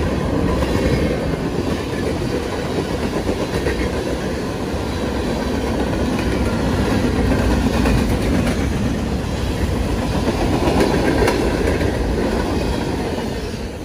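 Freight train of covered hopper cars rolling past: a steady rumble and rattle of steel wheels on the rails, with occasional clicks.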